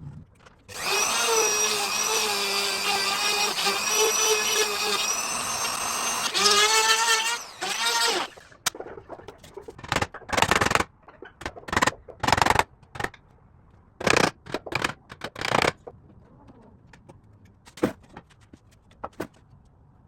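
A power tool's electric motor runs steadily for about six seconds with a high whine, wavers as it works, and stops about eight seconds in. After it comes a series of short, irregular noisy strokes, as of a hand tool working wood.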